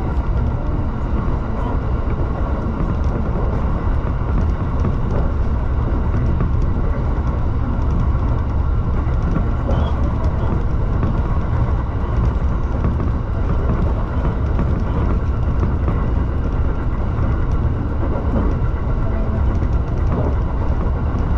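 Shinano Railway SR1 series electric train running along the line, heard from inside the driver's cab: a steady low rumble of running noise with no breaks.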